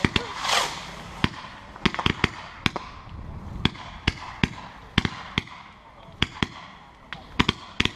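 Fireworks going off: a hissing rush in the first second, then a string of sharp, irregular cracks and bangs, about two a second.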